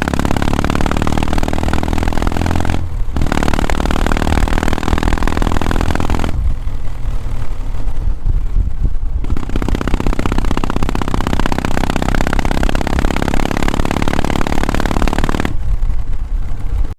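Kawasaki W650 air-cooled parallel-twin running through its exhaust while being ridden, pulling steadily under throttle. The throttle eases off briefly about three seconds in, for a longer stretch in the middle, and again near the end.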